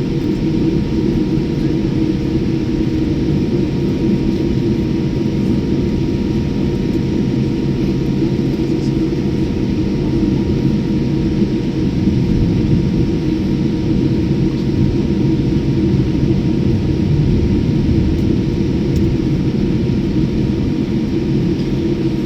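Steady low engine and air rumble heard from inside a moving vehicle, with a faint steady hum over it.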